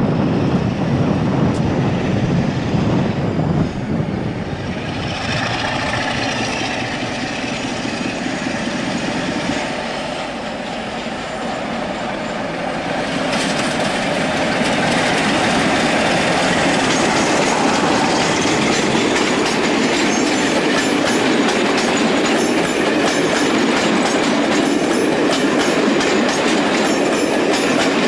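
Class 47 diesel locomotive hauling a passenger train through the station, growing louder about halfway through as it nears, then the coaches rumbling and clattering over the rail joints close by.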